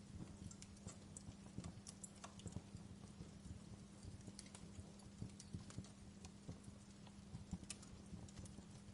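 Wood fire crackling: irregular small snaps and pops, several a second, over a faint steady low hum.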